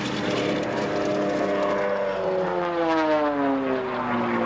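The twin Bristol Mercury radial engines of a Bristol Blenheim, running as the aircraft flies by. About two seconds in, the engine note starts to drop steadily in pitch as it passes.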